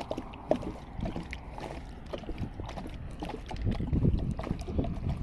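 Tent and camping gear being handled: scattered clicks, taps and rustling, with a stretch of heavier low bumps about four seconds in.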